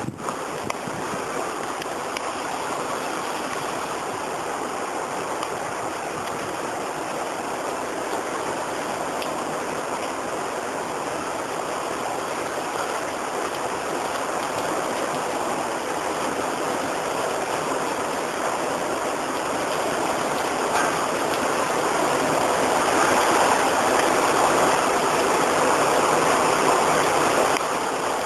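Heavy rain and wind of a thunderstorm squall line, a steady rushing hiss. It grows louder about two-thirds of the way through, then drops suddenly near the end.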